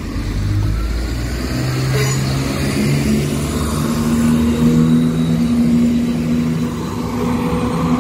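Large diesel engine pulling away, its note stepping up in pitch a few times as it accelerates, over a low rumble.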